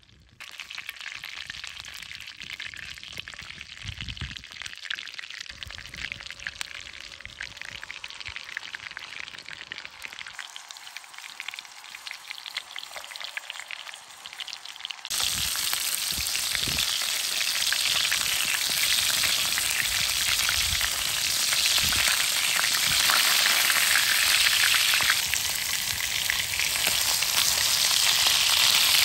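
Butter sizzling in a black skillet over a wood fire, then chicken frying in the hot fat. The frying becomes suddenly much louder about halfway through, with a few soft knocks of the pan or spoon.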